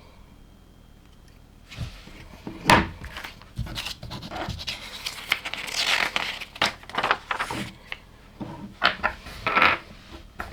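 LEGO plastic pieces being handled and clicked together: a busy run of sharp clicks and taps mixed with scraping, rustling sounds, starting after a short quiet moment.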